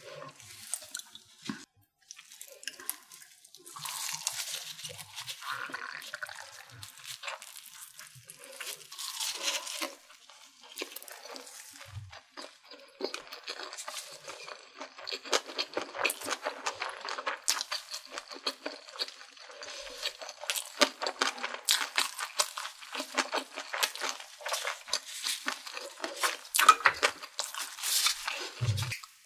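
Close-miked chewing of soft, chewy food: wet mouth sounds with many small clicks and smacks, sparse at first and almost continuous over the second half.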